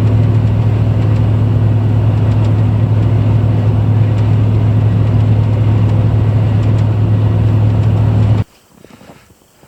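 Four-wheel-drive pickup truck driving, heard from inside the cab: a steady low engine and road drone that cuts off abruptly near the end, leaving only faint quiet sound.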